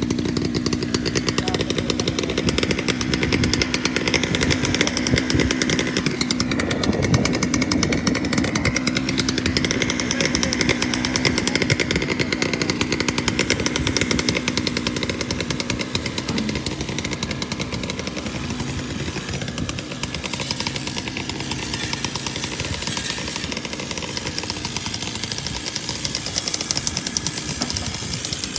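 A small engine on construction equipment running continuously with a rapid pulsing rattle, its pitch shifting up and down; it is a little quieter in the second half.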